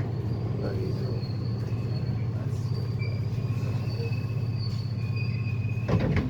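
London Underground 1973 Stock Piccadilly line train running: a steady low rumble with thin high-pitched wheel squeals that come and go. A short knock about six seconds in.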